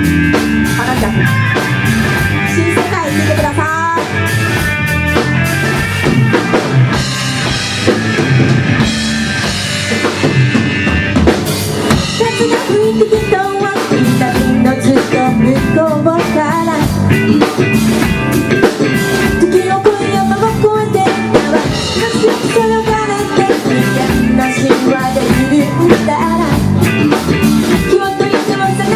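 A band playing live: a drum kit keeps a steady beat under guitar and other instruments, loud throughout.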